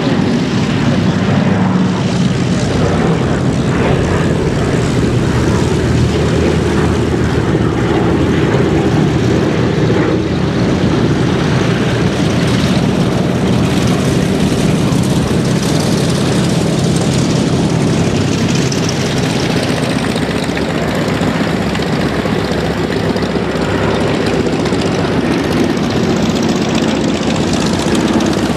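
Propeller and engine drone of a pair of Douglas C-47 Dakotas, their twin Pratt & Whitney R-1830 radial piston engines running steadily.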